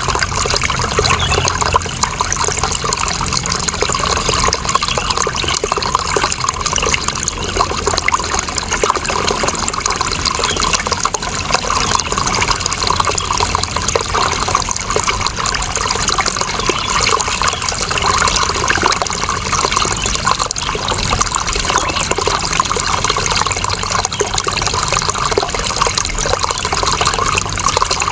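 Running water flowing and trickling steadily, with no breaks or changes.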